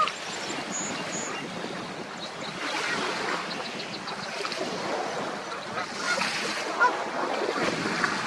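Lake waves washing and lapping steadily, with wind on the microphone, and a few short bird calls about six to seven seconds in.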